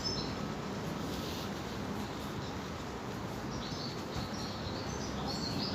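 Bird chirps, short and high, come briefly at the start and then in clusters from about three and a half seconds in to the end, over a steady background hum.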